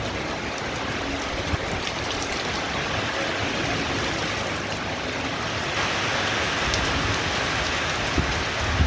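Heavy rain falling steadily, a little louder from about six seconds in, with a couple of low thumps near the end.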